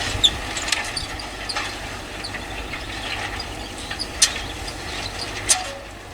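Tractor engine running steadily while ploughing, a low rumble, with a few sharp clicks over it, the loudest about four and five and a half seconds in.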